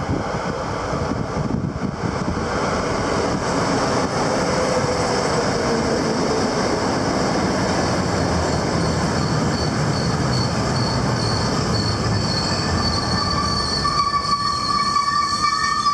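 A train running through the station with steady rushing wheel-and-rail noise. Near the end a steady high-pitched whistling tone comes in and grows louder.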